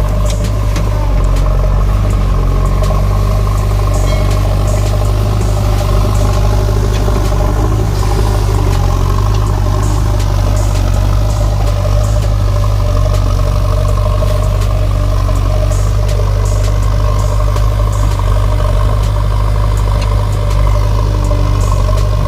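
An engine running steadily at idle, a deep even drone that holds unchanged throughout, with faint light clicks over it.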